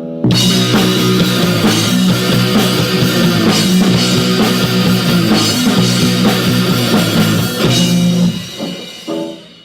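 Rock band playing loud, with drum kit and guitar. It comes in together just after the start, stops at about eight seconds and ends with one short final hit.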